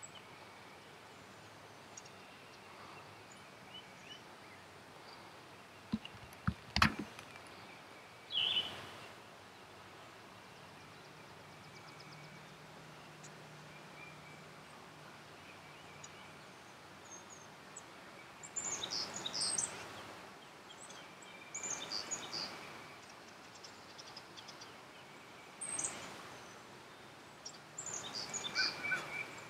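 Birds calling over a steady faint outdoor background, with several louder calls of about a second each in the second half. A few sharp knocks come about six to seven seconds in.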